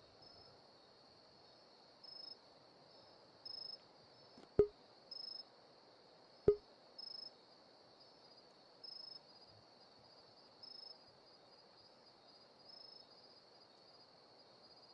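Insects trilling steadily and high, with a short louder chirp about every one and a half to two seconds. Two sharp clicks about two seconds apart, near the middle, are the loudest sounds.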